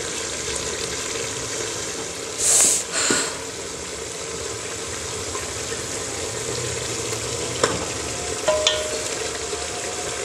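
Chicken pieces sizzling and bubbling in ghee and masala in a metal pot while being stirred with a wooden spoon. The hiss flares louder twice around two and a half to three seconds in, and there are a few clicks and scrapes of the spoon near the end.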